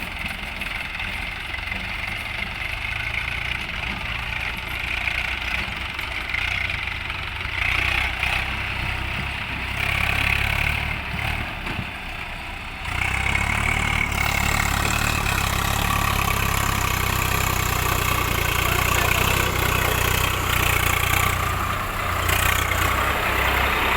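Diesel engines of a tractor and a JCB backhoe running; the sound steps up louder a little past halfway through and stays up.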